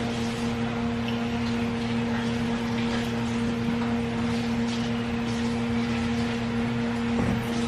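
A steady hum at one low pitch, with faint rustles and light clicks over it.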